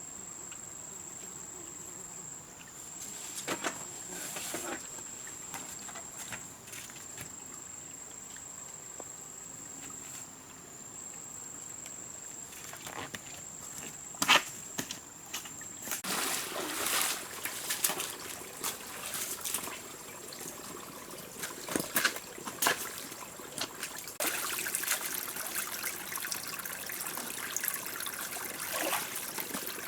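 Water trickling and splashing, with scattered sharp clicks, busier in the second half. A steady high-pitched insect drone runs through the first half and stops about halfway.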